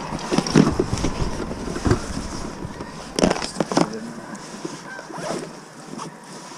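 Rummaging through a fishing tackle bag: an irregular string of knocks, clicks and rustles as lures and gear are moved about.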